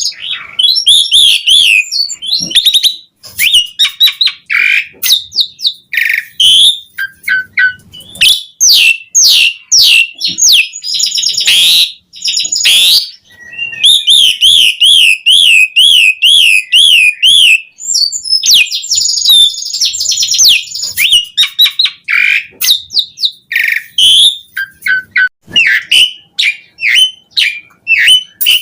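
Asian pied starling (jalak suren) singing vigorously: a long, varied run of quick chirps, whistles and gliding notes with a long wavering trill near the middle, packed with the mixed phrases bird-keepers call isian.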